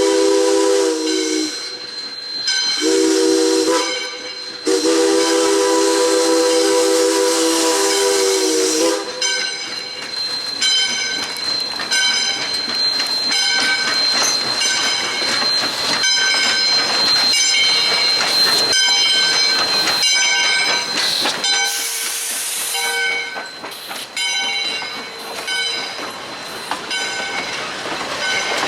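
Steam locomotive's chime whistle sounding a chord of several tones in three blasts, the last one the longest. The engine then works past with rhythmic exhaust chuffs about twice a second, a steady high squeal and a short burst of steam hiss.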